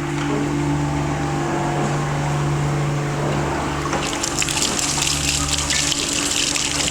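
Water from a toilet flush rushing through the drain line, starting about four seconds in over a steady mechanical hum.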